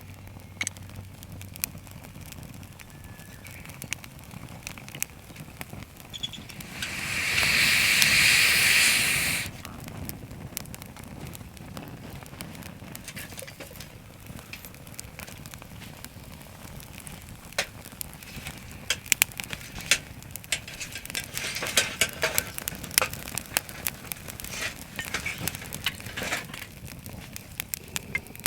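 Wood fire crackling and popping with scattered sharp snaps, busier later on. About seven seconds in there is a loud hiss lasting about two and a half seconds.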